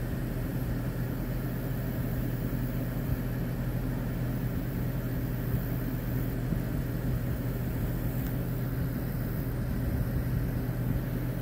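Vehicle engine idling with a steady hum.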